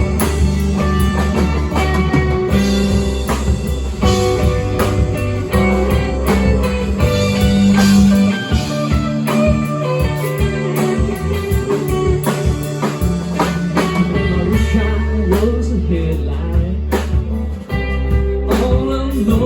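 A band playing blues-rock, with guitar to the fore over a steady beat.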